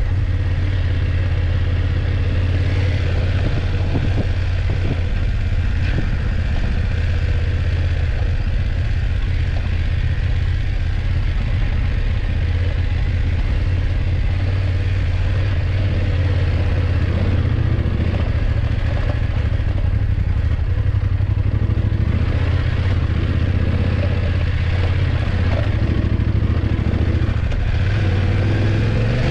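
BMW F850GS motorcycle's parallel-twin engine running at a steady pace while riding.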